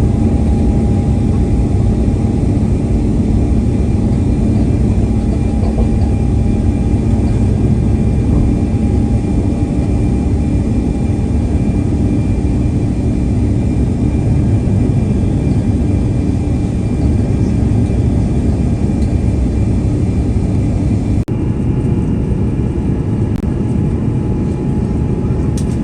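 Airbus A350-900's Rolls-Royce Trent XWB jet engines and airflow heard from inside the passenger cabin: a loud, steady rush with a few steady hum tones. About 21 seconds in the sound changes abruptly and turns duller.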